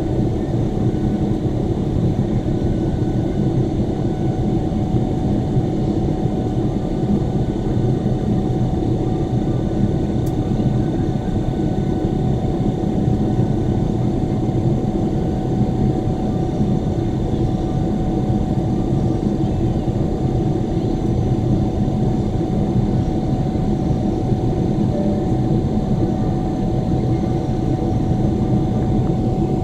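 Steady drone of a jet airliner in flight, heard from inside the passenger cabin: engine and airflow noise with a couple of faint, steady whines above it.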